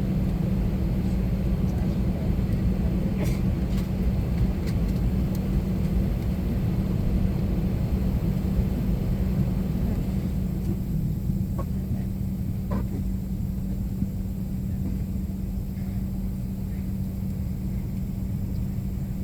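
Steady cabin rumble of an Airbus A321-200 before takeoff, with a constant low hum. The higher hiss eases off about halfway through, and there are a few faint clicks.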